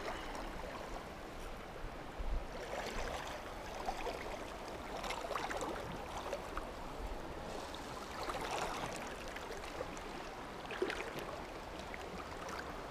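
River water flowing, a steady rush of current, with a couple of brief knocks.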